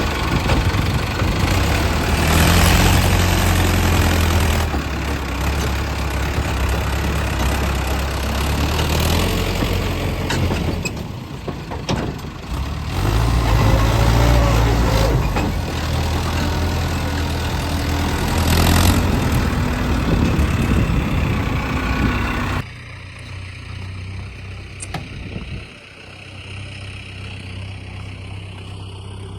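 Tractor diesel engine running, its pitch stepping up and down a few times. About three-quarters of the way through it drops suddenly to a quieter, steady engine hum.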